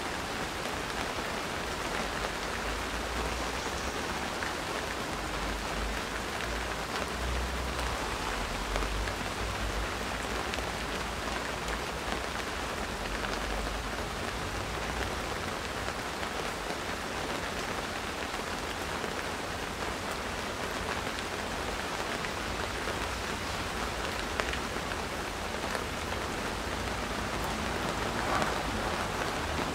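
Steady rain falling in a garden, an even hiss of many drops with no letup. A low rumble comes and goes underneath.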